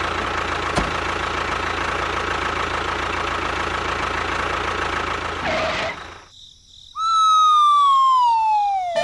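A small motor or engine runs steadily with a hum for about six seconds, with one click about a second in, then stops. About a second later a single long whistle-like tone slides steadily downward in pitch.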